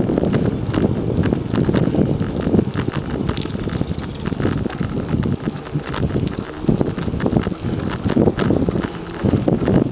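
Wind buffeting the microphone while riding a bicycle, with steady rumble and frequent small clicks and rattles from the moving bike.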